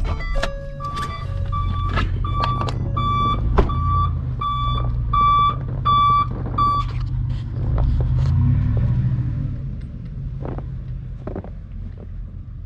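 Vehicle backup alarm beeping at a steady pitch, about three beeps every two seconds, over a running engine. The beeping stops about seven seconds in, and the engine keeps running with a few light knocks.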